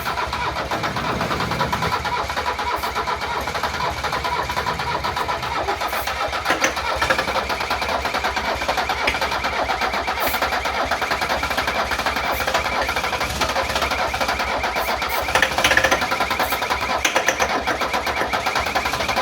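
A Mercedes OM617 turbocharged five-cylinder diesel being cranked over on its old starter motor in one long, steady crank as the crew tries to get it to start for the first time after an engine swap.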